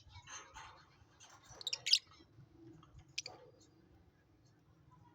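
Lovebirds giving a few short, sharp high chirps, a quick cluster about two seconds in and one more a second later, over faint rustling.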